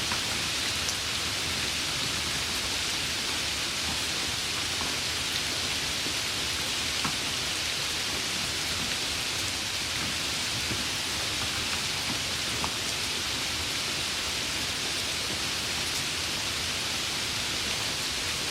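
Steady rain falling, an even patter with a few individual drops ticking out here and there.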